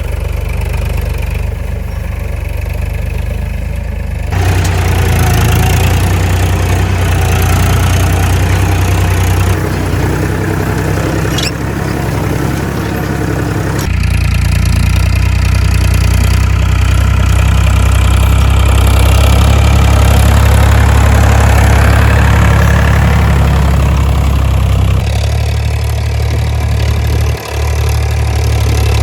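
2WD farm tractor's diesel engine running steadily with a deep hum. It gets louder about four seconds in, eases off twice and picks up again, as its load changes while working the field.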